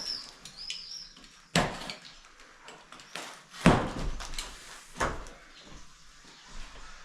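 Knocks and thumps of boxed shower-unit parts being handled and set down, three of them clearly louder, the loudest about halfway through, with a brief high squeak near the start.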